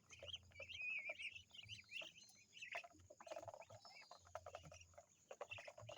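Faint, rapid chirping and peeping of birds, many short calls in quick succession, over a faint low hum.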